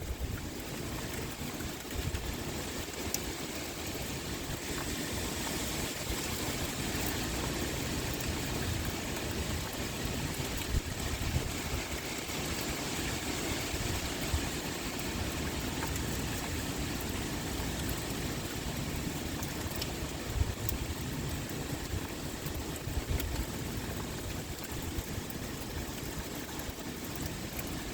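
Steady pouring rain, an even hiss with fine drop ticks, with a few brief low gusts of wind.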